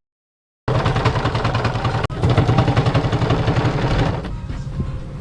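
An engine running with a rapid, even pulse, starting after a short silence, with a brief break about two seconds in and quieter from about four seconds in.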